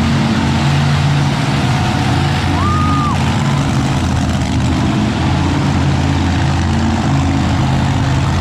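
Monster truck engine running steadily at low revs, a deep, even engine sound with no revving.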